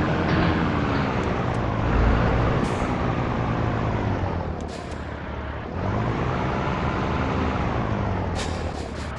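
Scania T113 truck's diesel engine running under way, its pitch rising and falling twice with a quieter dip between. A few short, sharp air hisses come near the end.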